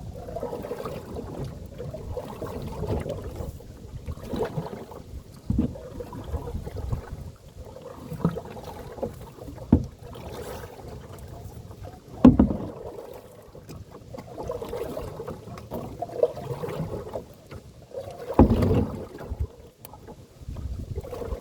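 Canoe paddle strokes splashing and pulling through choppy water with wind buffeting the microphone, broken by several sharp knocks, the loudest about twelve seconds in. The paddling is against a strong wind and current that are holding the canoe in place.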